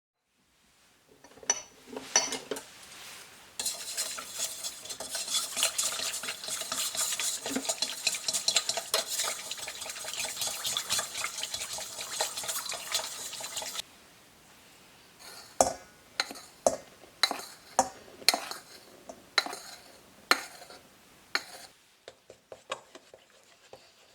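A utensil stirring ingredients in a bowl to mix pizza dough: about ten seconds of steady scraping and clinking, then a run of separate sharp taps against the bowl.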